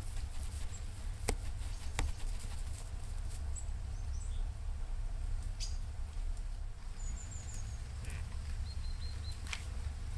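Outdoor woodland ambience with a steady low rumble and a few sharp clicks, while small birds give short runs of three or four quick high chirps about two thirds of the way in and again near the end.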